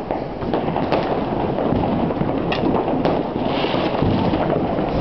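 Many New Year's fireworks going off across a town at once: a continuous din of distant bangs and crackling. A few sharper reports stand out, about a second in and again around two and a half to three seconds in.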